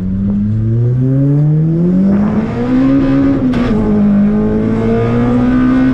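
Four-cylinder engine of a stripped-out Toyota Corolla T-Sport track car pulling hard, heard from inside the cabin. The revs climb steadily for about three seconds, the pitch dips briefly with a click about three and a half seconds in, and then the engine holds at high revs.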